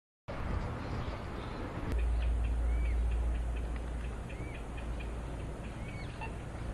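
Birds calling: repeated short high chips and a recurring rising-then-falling call about every second and a half. Under them is a steady low rumble, the loudest sound, which starts with a knock about two seconds in.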